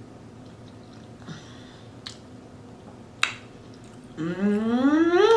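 A person eating pot roast: a few sharp mouth clicks and smacks while chewing, then near the end a loud hummed 'mmm' of enjoyment that rises steadily in pitch.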